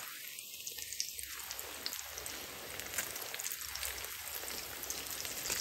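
Breaded chicken and potato cutlets shallow-frying in hot oil in a pan: a steady sizzle with a dense crackle of small pops.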